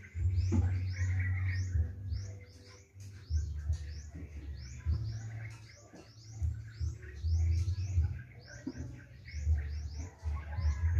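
A bird chirping over and over, a short high chirp a few times a second, over an uneven low rumble.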